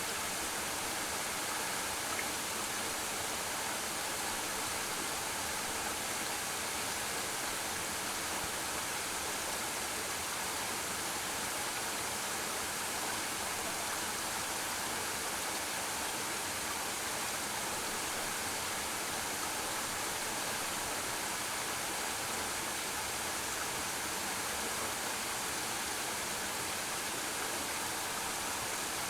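Waterfall splashing steadily into a pool: a continuous, even rush of falling water.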